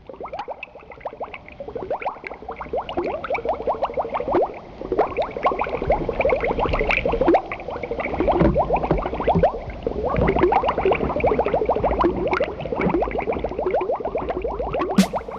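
Water bubbling and gurgling: a dense, busy stream of quick little bubbly chirps over a low rumble, growing louder after the first few seconds.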